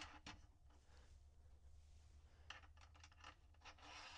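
Near silence with a low steady hum and a few faint clicks of small parts being handled, a cluster of them a little over halfway through.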